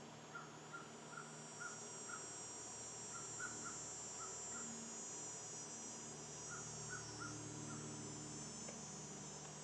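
A bird calling in three quick series of short, repeated notes, about two or three a second, over a steady high-pitched insect buzz.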